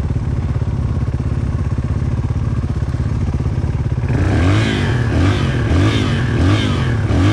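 450 dirt bike engine running at a steady low idle, then blipped up and down about five times in quick succession from about four seconds in.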